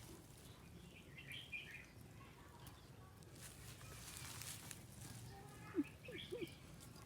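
Faint outdoor ambience with a few short bird chirps about a second in and again near the end, over a steady low background hum.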